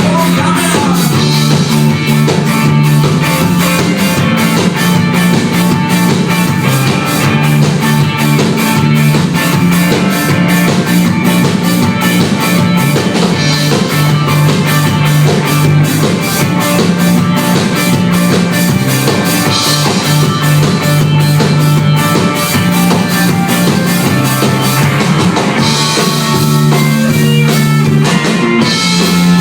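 Live indie rock band playing an instrumental passage: a steady drum kit beat, electric guitars and a bass line, with no singing.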